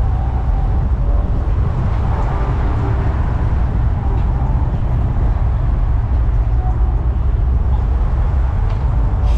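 Steady low rumble of idling car engines.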